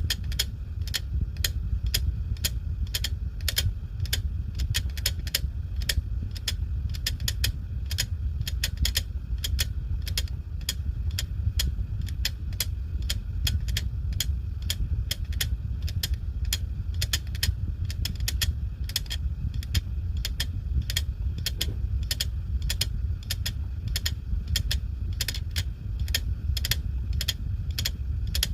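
Hard disk drive clicking abnormally, about two clicks a second and slightly uneven, over a steady low hum: the abnormal noise of a faulty drive.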